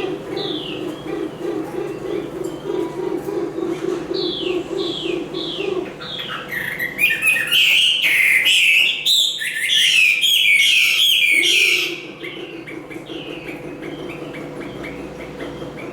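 Chinese hwamei (họa mi) singing: a string of repeated falling whistled notes that breaks into a loud, rapid, full song from about six seconds in to about twelve seconds, then drops back to the slower repeated notes.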